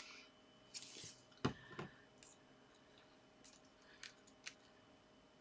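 Faint rustles and a few light taps of paper and card being handled and pressed down. They come in short bursts, mostly in the first two seconds and again twice near the end.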